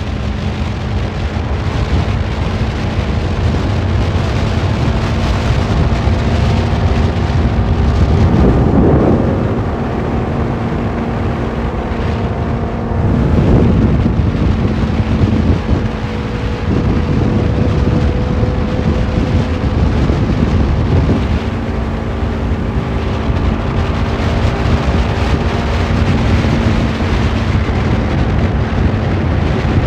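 Superbike engine running on the road under heavy wind buffeting on the microphone, with the engine pitch climbing as the throttle opens about a third of the way in and again around the middle.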